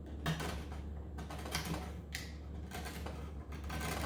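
A blade cutting through the hardened glue and felt-and-wood layer under a piano keystick's damper felt, cracking in a series of short scraping strokes.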